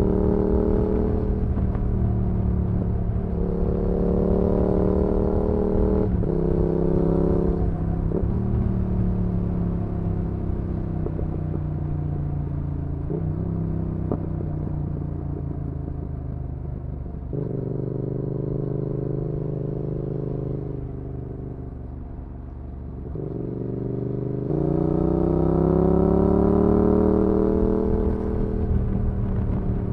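2019 Yamaha XSR700's parallel-twin engine through an aftermarket IXRACE MK2 exhaust, heard onboard while riding. The revs climb and drop several times through gear changes in the first half, and ease to a quieter stretch a bit past two-thirds through. Then comes a long rising rev, the loudest part, which falls away near the end.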